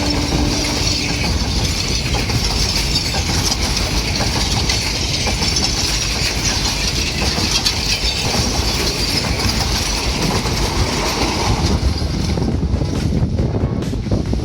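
Passenger train rolling past behind a Sri Lanka Railways Class M8 diesel locomotive, its wheels clattering over the rail joints. The end of the horn's blast cuts off about a second in. The rushing of the cars dies down near the end as the train moves away.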